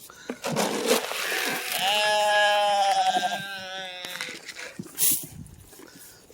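A goat or sheep from a mixed farm flock gives one long quavering bleat about two seconds in, lasting about a second and a half, with rustling before it and a brief loud noise near the end.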